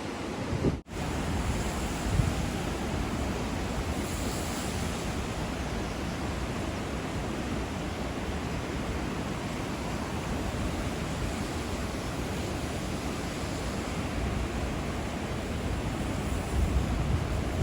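Steady rushing of a swollen river pouring through a weir, a constant even roar of water with some wind on the microphone; it briefly cuts out about a second in.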